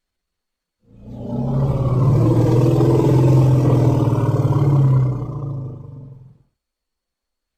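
Elephant giving one long, low, rough roar with a pulsing texture. It starts about a second in, lasts about five seconds, then fades out.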